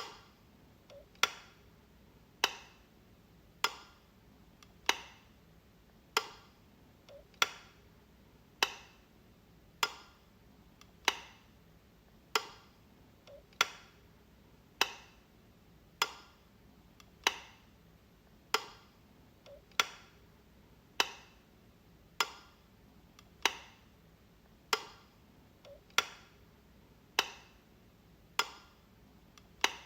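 Light switch clicking, one sharp click about every 1.2 seconds at a steady pace.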